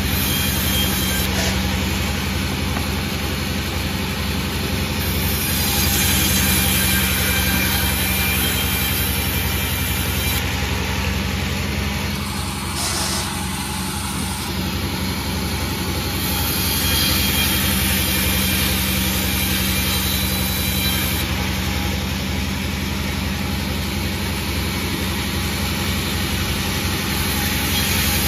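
Panda36 sawmill running: a steady, loud machine hum with a continuous noisy whirr over it, easing slightly for a couple of seconds around the middle.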